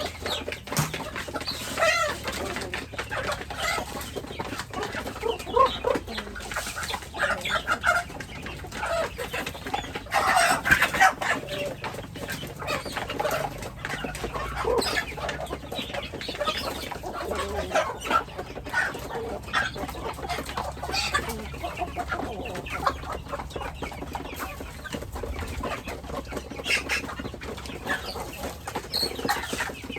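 Domestic chickens clucking, many short overlapping calls, with a louder, denser flurry about ten seconds in.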